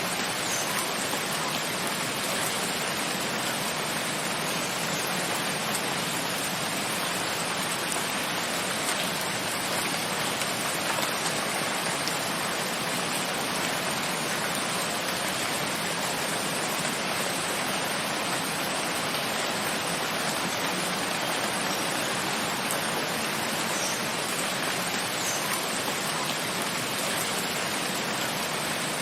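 Steady rain, an even hiss of falling water that holds at one level throughout.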